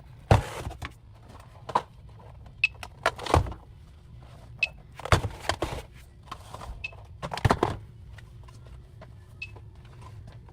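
Rustling and knocking of merchandise and packaging being handled and shelved, in short bursts a second or two apart, over a steady low hum.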